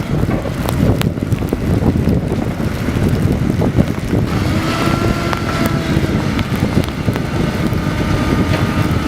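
Heavy truck engine running under load with wind buffeting the microphone. A steady whine comes in about four seconds in.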